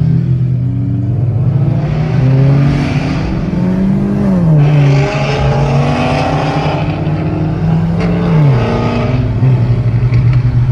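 Car engines running loud and revving under acceleration. The pitch climbs and drops sharply twice, about four seconds in and again about eight and a half seconds in.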